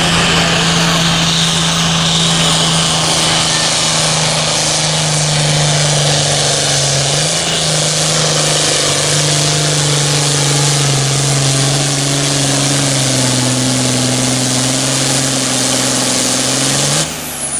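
A pulling tractor's engine running hard, loud and steady, its pitch sagging slightly and recovering along the way. Near the end the engine is cut back suddenly and a high whine falls away as it winds down.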